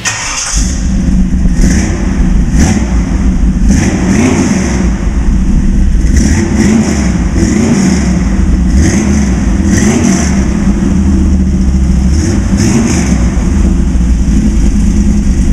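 Modified 350 engine of a 1936 Dodge coupe running loud, with a deep steady rumble and the revs surging up and back several times.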